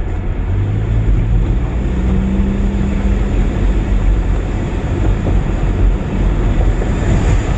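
Pickup truck's engine and road noise heard from inside the cab while driving, a steady rumble with an engine hum that steps up in pitch about two seconds in.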